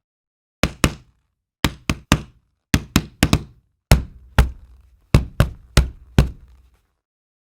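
A run of sharp knocks, about fifteen in uneven clusters of two or three, each with a short thud and a brief ring after it. It sounds like a knocking sound effect.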